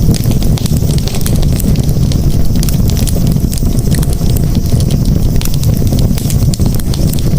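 Campfire crackling: frequent small sharp pops and snaps over a steady low rumble of the burning fire.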